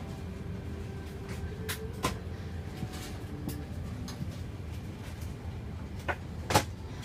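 A steady low rumble with a handful of sharp clicks and knocks, the loudest one near the end.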